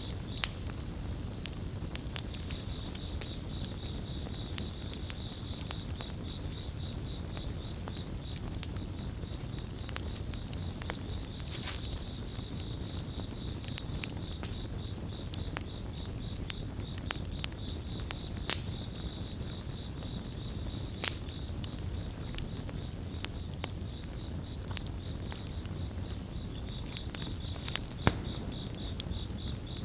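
Campfire crackling, with frequent sharp pops over a steady low rumble of burning wood. Crickets chirp throughout in a fast, even pulsing trill.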